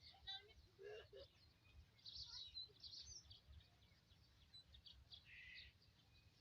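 Faint birds calling: scattered short chirps and quick trills over a low, steady rumble.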